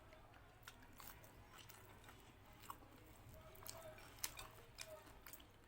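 A person chewing and biting food, with many faint, irregular mouth clicks and smacks.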